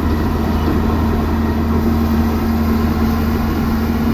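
An engine running steadily at an even speed, with a constant low hum and drone.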